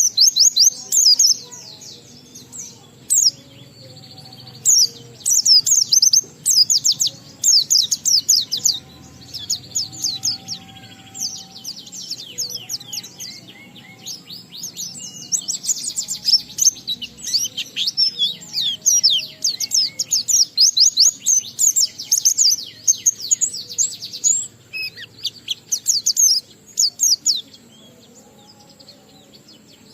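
A white-eye (pleci) singing a long, rapid run of high-pitched chirps and trills, with a brief lull near the end.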